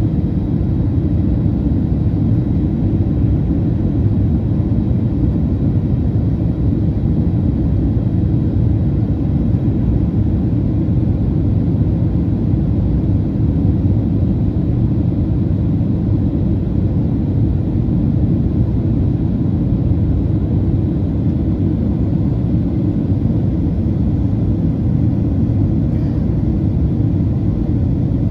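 Steady cabin noise inside a Boeing 737-800 in flight: an even low rumble of airflow and the CFM56 engines.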